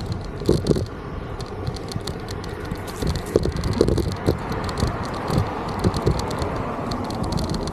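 Estarli E20 folding e-bike rattling as it rolls along a path, with frequent irregular knocks and clicks over a steady rush of tyre and wind noise.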